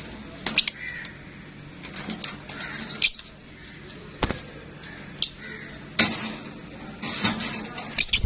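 Parrots calling in short squawks, among sharp clicks at irregular intervals.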